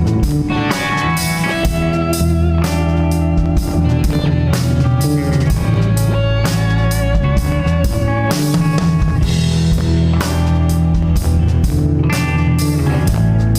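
Live rock band playing an instrumental passage: electric guitar lead notes with vibrato over bass guitar and drum kit.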